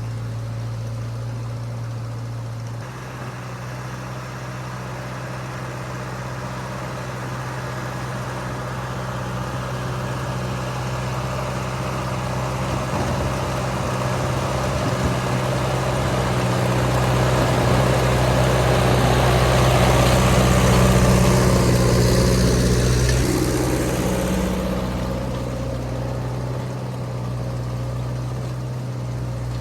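Ford N-series half-track tractor's four-cylinder flathead engine running steadily, its note shifting about three seconds in. The sound swells louder, with added clatter and hiss, around twenty seconds in, then eases back to a steady run.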